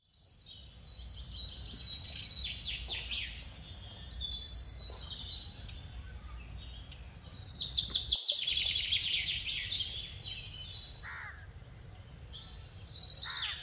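Several birds chirping and singing in quick repeated calls, busiest about eight seconds in, over a low steady rumble of outdoor background noise.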